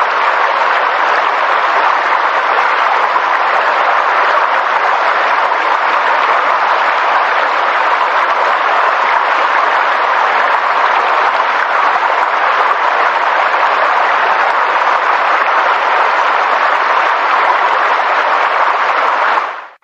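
Steady, dense rushing noise of a nature ambience recording, even in level throughout, dipping away to silence for a moment near the end before coming straight back.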